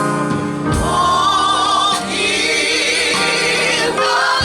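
Gospel vocal group singing over held chords, the voices coming in under a second in.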